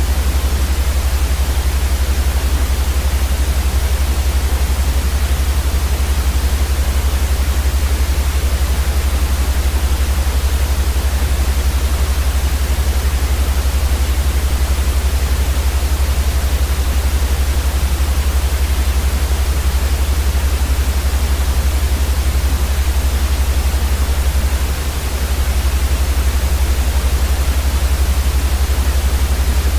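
Steady white noise for sleep: an even hiss across the whole range over a strong, steady low hum. The level dips briefly about five seconds before the end.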